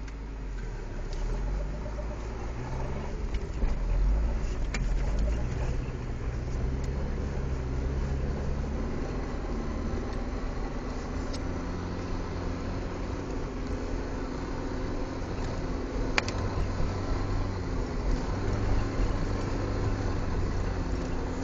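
Nissan 240SX's engine heard from inside the cabin, revving up and easing off as the car is slid through turns on snow, with two short sharp clicks about five and sixteen seconds in.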